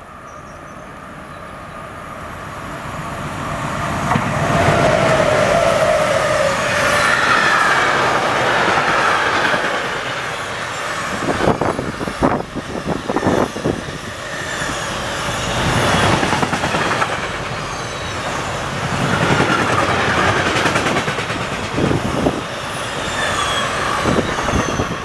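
An electric freight train passing at high speed: the noise builds over the first few seconds as it approaches, then a steady rush of intermodal wagons goes by, with a whine early on and bursts of sharp wheel clatter, about halfway through and again near the end.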